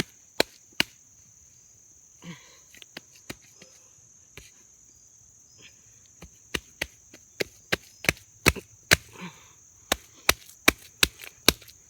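Repeated sharp smacks, sparse at first and then coming about two or three a second, from wet mud being slapped and packed into the face of a dirt-bike jump. Crickets chirp steadily behind.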